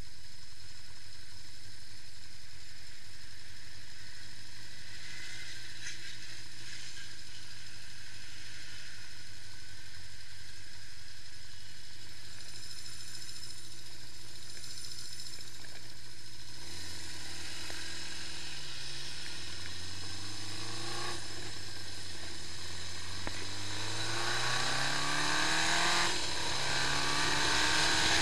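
Honda CB550 Four's air-cooled inline-four engine idling steadily, then revved repeatedly from a little past halfway, the pitch rising and falling with each blip and climbing higher near the end.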